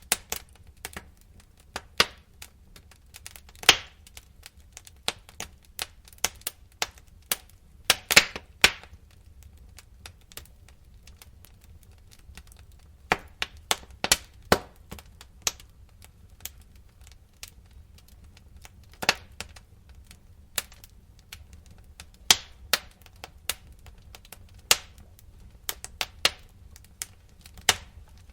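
Wood fire crackling, with irregular sharp pops and snaps over a low steady rumble; a few pops stand out louder, about four and eight seconds in.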